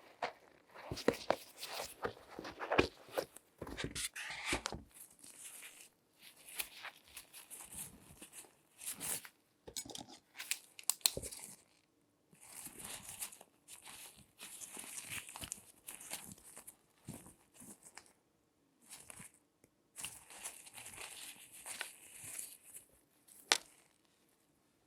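Latex-gloved hands handling and scratching at objects close to the microphone: irregular bursts of crinkling, rustling and scratching, with a few sharp clicks, the sharpest one near the end.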